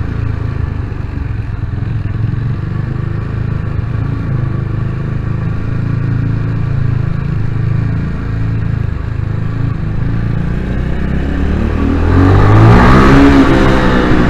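Vitacci GTX 250 EFI motorcycle engine running while riding, echoing in a parking garage. About twelve seconds in it revs up louder, with rising pitch.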